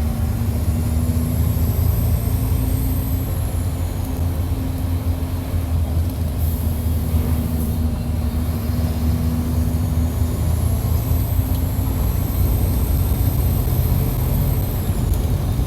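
Mercedes-Benz OF-1722 bus's six-cylinder turbodiesel running hard at high revs, heard close to the engine, with a steady low drone. A high whine rises and falls twice as the engine pulls, and a brief hiss comes around the middle.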